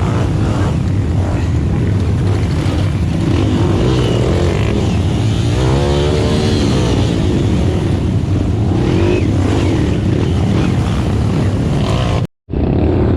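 Dirt bike engine running steadily with some changes in revs. The sound drops out completely for a moment about twelve seconds in.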